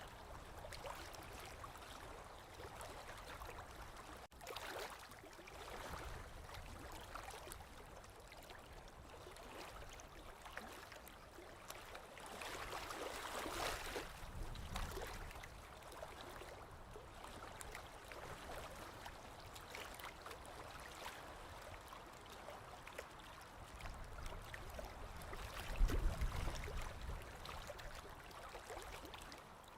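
Small lake waves lapping and splashing against the shore, a continuous wash that swells every few seconds, with the strongest surge about 26 seconds in.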